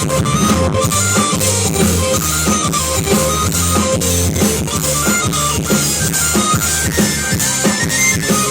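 Live band music: guitar and drum kit playing a steady beat over low, sustained bass notes.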